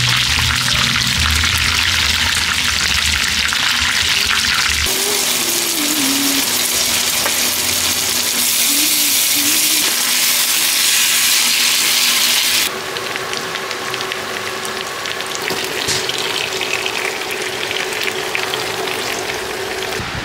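Food sizzling in hot oil: a loud, steady frying hiss in three takes, joined by abrupt cuts about five and thirteen seconds in.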